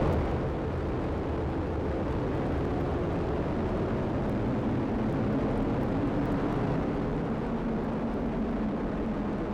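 Atlas V rocket's engines during ascent just after liftoff: a steady low rumble of exhaust noise from its RD-180 main engine and solid rocket boosters.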